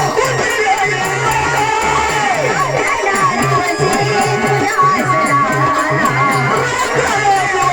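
Marathi gavlan folk music: a winding melody over a quick, steady percussion beat with a repeating low pulse.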